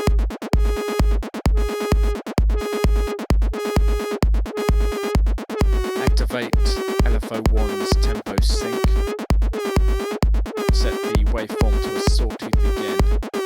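Electronic dance loop: a four-to-the-floor kick drum at 130 BPM under a pumping pulse-wave synth bass patch repeating one note. About halfway through, each note starts dipping and returning in pitch and brightness as an LFO sweeps the filter cutoff and the pitch.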